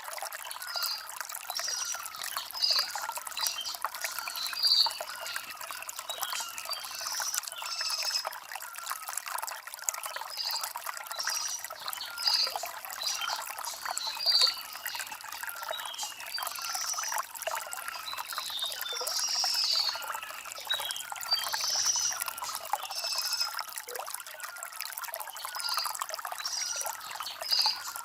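Shallow stream trickling and gurgling over stones, steady, with many small splashes.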